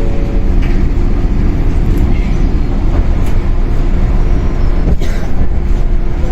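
Running noise heard from inside a Shinano Railway 115 series electric multiple unit motor car: a loud, steady rumble of wheels on rail and the traction motors underneath, with a faint steady tone and one sharp click about five seconds in.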